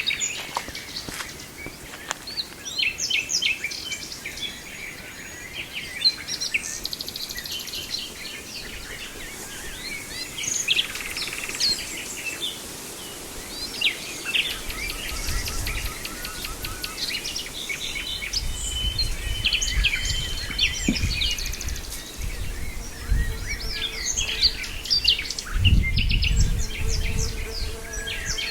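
Nightingale singing: rapid, varied phrases of chirps, trills and short held whistles, repeated throughout. A low rumble joins in about halfway.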